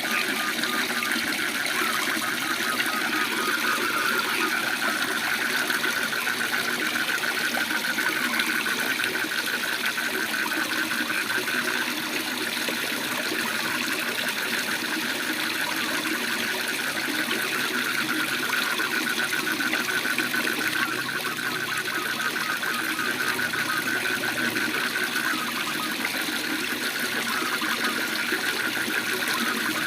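Waterfall's steady rush of falling water, with frogs giving a continuous rapid pulsing trill over it.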